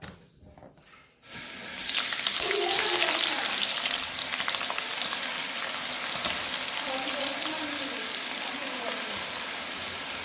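Food added to hot oil in a cooking pan, starting to sizzle loudly with a sudden hiss about two seconds in, then frying steadily.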